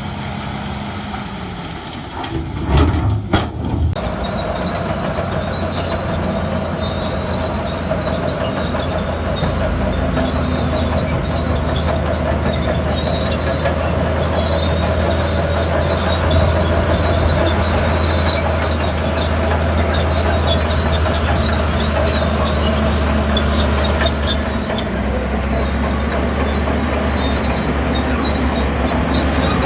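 Heavy diesel earth-moving machinery running steadily, with a high metallic squeal and clatter over the engine hum. A few loud knocks about three seconds in.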